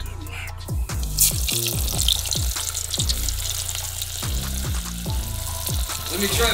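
Hip-hop background music with deep bass notes that slide down in pitch, over the steady sizzle of battered fish frying in hot oil in a small pot on a hot plate.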